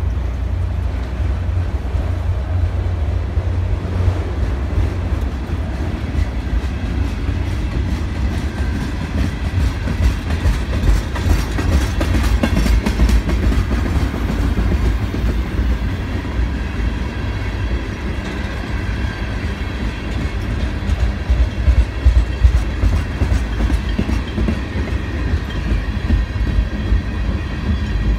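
CN freight train of autorack and tank cars rolling past, a steady low rumble with the wheels clacking over the rail joints.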